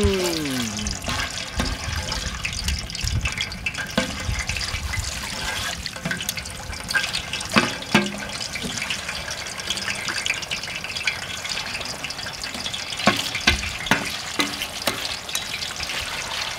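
Marinated pork belly frying in hot oil in a pan: a steady sizzle, with a few sharp knocks about halfway through and again near the end.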